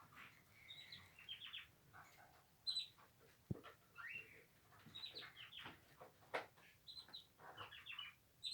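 Cockatiels chirping in short, scattered calls, with a couple of sharp clicks among them.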